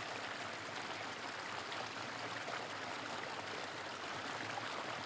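Steady rush of flowing river water from a small stream.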